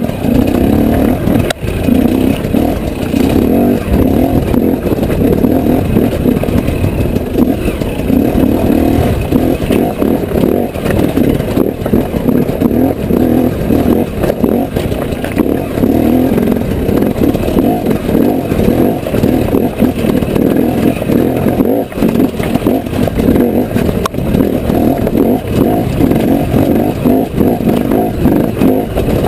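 Enduro motorcycle engine running at low speed under changing throttle, its level rising and falling as the bike crawls over loose rock, heard close up from an onboard camera.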